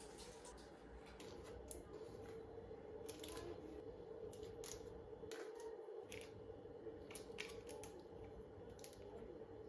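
Faint kitchen handling sounds: irregular light clicks and scrapes, a few each second, over a steady low hum.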